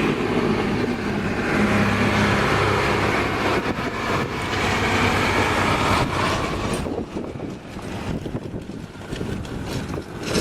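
Mi-8 transport helicopter's twin turboshaft engines and main rotor running loud and steady. About seven seconds in the sound drops away and gives way to gusty wind noise on the microphone.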